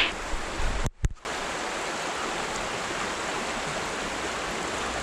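Shallow, fast-flowing river rushing over rocks: a steady, even rush of water that cuts out briefly about a second in.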